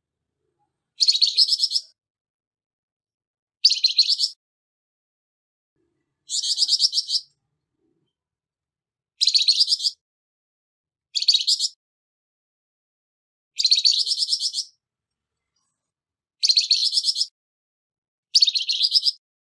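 Flamboyan bird giving harsh, rasping trilled calls, short bursts under a second long repeated about every two to three seconds, eight times.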